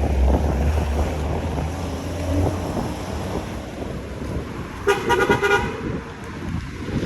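City street traffic: a motor vehicle passes with a low engine rumble, and about five seconds in a car horn gives a short honk.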